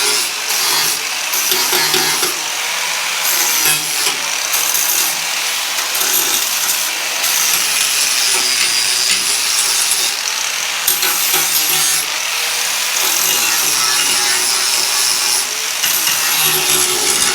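Handheld rotary power tool grinding rust off a vintage Porsche 911's steel body panel down to bare metal: a loud, steady rasp with a high whine that wavers in pitch and dips briefly a few times.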